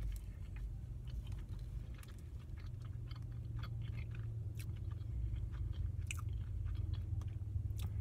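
A person chewing a mouthful of rib sandwich on a soft roll, with many small irregular mouth clicks, over a steady low hum.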